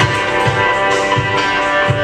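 A band playing live, with no singing: held chords over a steady beat, with a low thump about every half to three-quarters of a second.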